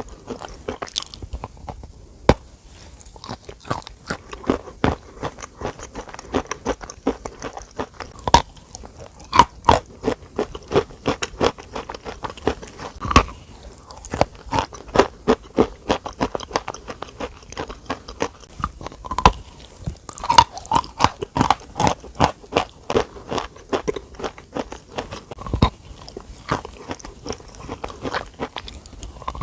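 Close-miked crunching and chewing: a dense run of crisp crackling bites, several a second, with no pause.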